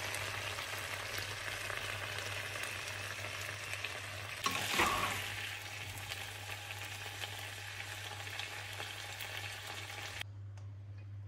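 Chicken and vegetable stir-fry sizzling in a nonstick wok while a spatula stirs it, with one louder scrape about halfway through. The sizzle cuts off abruptly near the end, leaving a low steady hum that runs underneath throughout.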